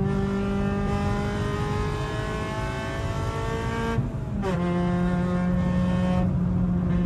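Honda B16B 1.6-litre VTEC four-cylinder of an EK9 Civic Type R pulling under hard acceleration, heard from inside the cabin. The engine note climbs steadily, then about four seconds in a brief break and drop in pitch marks an upshift, and the note holds lower as it pulls in the next gear.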